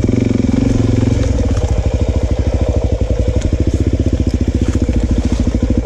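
Enduro motorcycle engine running at low revs with a steady, even pulse as the bike is ridden slowly over rocky ground; the engine sounds a little fuller for the first second or so, and a few light clicks come through.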